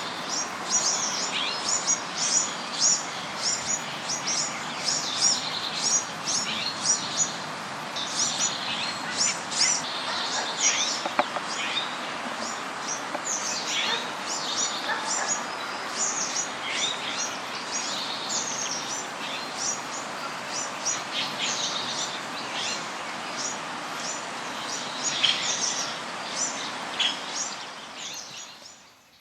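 Many small birds chirping at once, rapid short high chirps overlapping without pause over a steady background hiss, fading out near the end.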